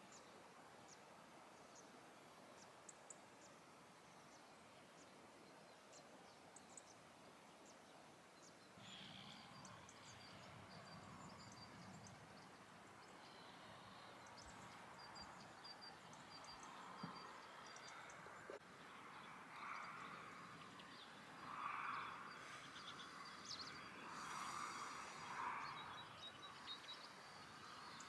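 Faint birds chirping, with a few quick trills of repeated high notes, over a near-silent countryside background.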